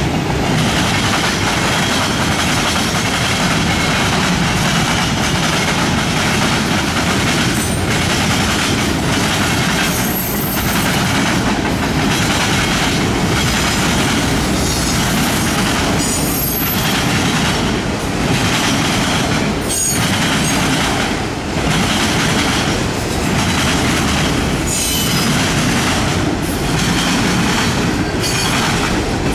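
Freight cars of a fast-moving mixed freight train rolling past: a steady rumble with the clatter of steel wheels over the rail diamond, and brief high wheel squeals a few times.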